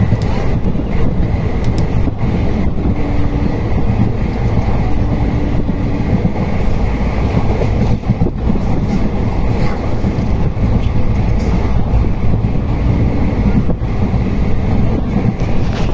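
Local passenger train running, a steady loud rumble of wheels on track heard from inside the carriage.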